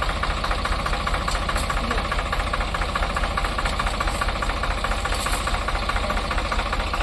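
Diesel tractor engine running steadily at idle, with a fast, even knocking beat.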